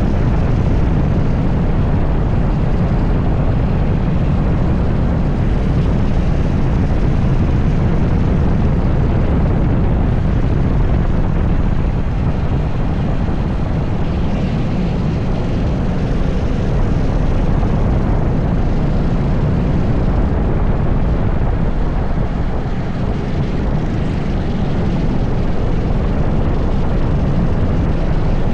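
80cc racing kart engine running continuously at speed on track, mixed with a heavy low rumble, with only slight dips in level a couple of times.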